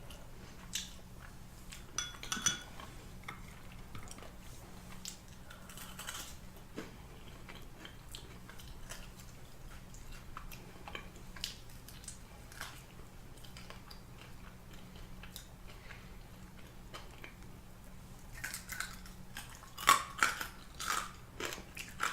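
Close-miked eating at a table: chewing and biting food, with scattered light clicks of utensils on dishes over a faint steady hum. A burst of louder, sharper clicks and crunches comes near the end.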